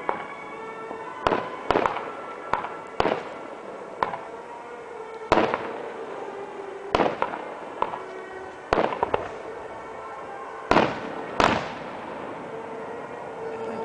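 Fireworks going off: about a dozen sharp bangs of bursting shells at irregular intervals, some in quick pairs, over background music.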